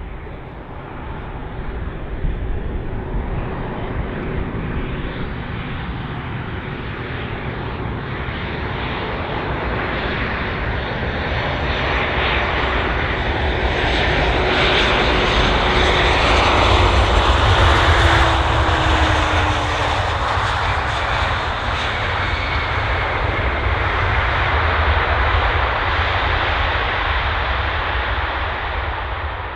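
Jet airliner passing close by: engine noise builds to a loud peak a little past the middle, with a falling pitch as it goes by, then fades off.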